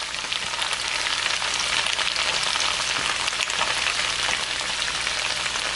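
Chicken pieces in sauce sizzling steadily in a wok over high heat: an even frying hiss.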